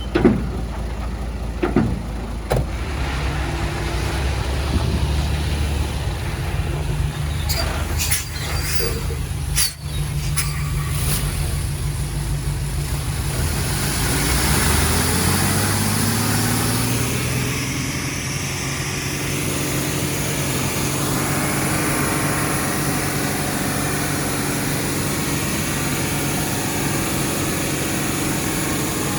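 Heavy diesel machinery running steadily, with a few knocks near the start and several short, sharp high squeals a third of the way in. About halfway through one engine revs up, rising in pitch, then holds a steady note.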